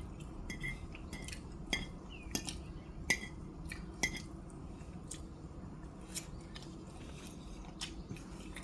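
Close-up eating sounds of a person biting and chewing crispy fried chicken wings: irregular crunchy clicks, frequent in the first four seconds and sparser after that.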